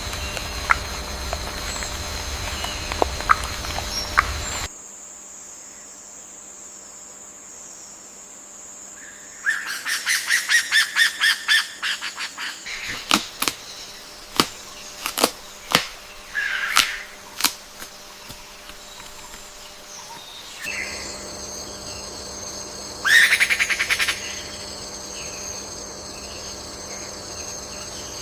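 Wild birds calling over forest ambience: a quick run of chirps, then several single sharp calls, and a loud rapid burst of calls later. A steady high insect drone sits behind the birds at the start and again in the later part, and the background changes abruptly between recordings.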